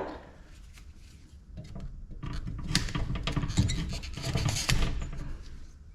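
Small metal scrap parts from an ice maker clinking, rattling and scraping as they are handled. A quick run of light knocks starts about two seconds in and lasts until near the end.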